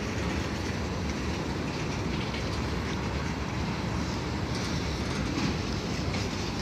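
Norfolk Southern freight train's tank cars rolling past, a steady noise of steel wheels running on the rails.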